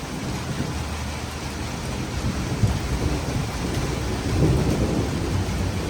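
Thunder rumbling over heavy, steady rain from a thunderstorm; the low rumble swells in the second half.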